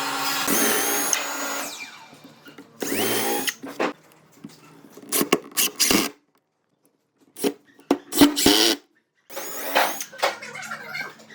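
Handheld power tool running in short bursts, some with a rising whine as the motor spins up, cut together with brief dead-silent gaps between clips.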